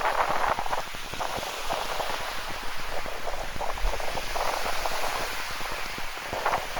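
Rain pattering as a dense crackle of drops, swelling louder at the start and again near the end.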